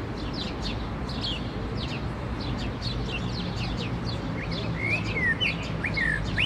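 Birds chirping: a quick run of short, high, downward chirps throughout, joined about four and a half seconds in by louder, lower, down-slurred calls. A steady low background noise underneath.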